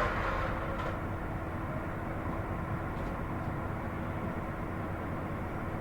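Steady background rumble and hiss with a faint, constant low hum, and no speech.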